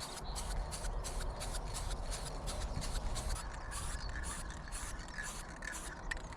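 Aerosol spray-paint can being shaken, its mixing ball rattling in an even rhythm of about four strokes a second that stops near the end, over a steady low rumble.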